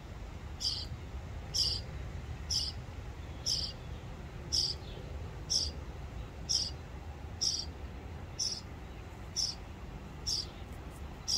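A small bird calling one short, high note over and over, very evenly, about once a second.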